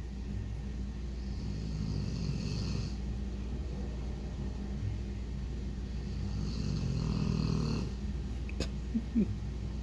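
A sleeping dog snoring: two long snores about five seconds apart. Near the end there is a sharp click, then two brief squeaks.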